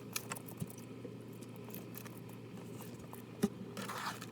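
Faint scattered clicks and small crunches from a bearded dragon snapping up and chewing superworms off its plate. The loudest click comes about three and a half seconds in.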